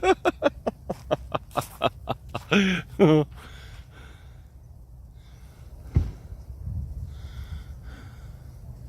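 A rapid run of short, breathy vocal sounds from a person for about three seconds, ending in two longer wavering ones. A single thump follows about six seconds in.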